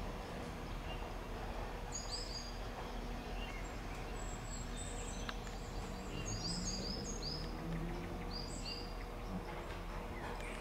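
Small birds chirping and singing, in short repeated notes, over a low steady background rumble.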